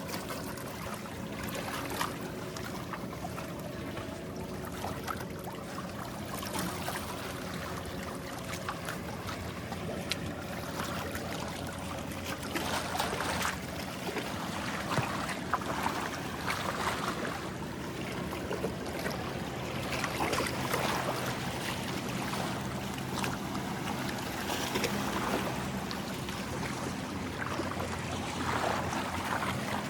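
Small sea waves lapping and washing on the shore, over the steady low hum of a motorboat engine out on the water.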